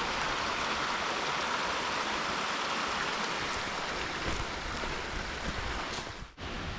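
Steady rush of a stream running over rocks. It thins after about four seconds as low wind rumble on the microphone comes in, and it cuts out briefly near the end.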